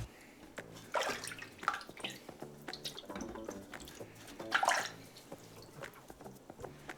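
Water splashing and dripping in a few short bursts, the loudest about two-thirds of the way through, as on the wetted whetstones of a knife-sharpening bench.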